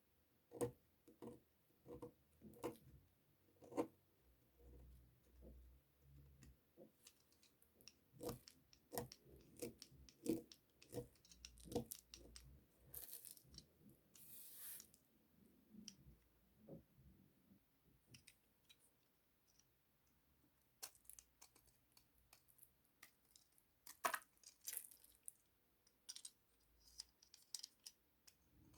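Quiet, irregular crisp clicks and crackles from a bar of soap being worked for ASMR, with a short scraping rustle about halfway through and one sharper snap near the end.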